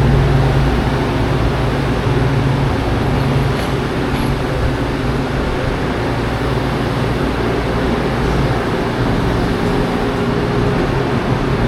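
Steady hum and rumble inside a Brightline passenger coach, with no sudden events.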